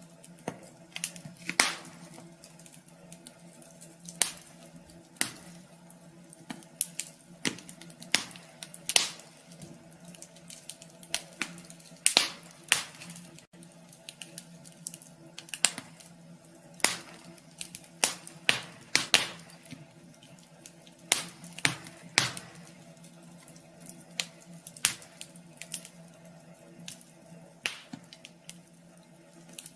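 Wood burning in a wood stove, crackling with irregular sharp pops and snaps at uneven intervals, over a steady low hum.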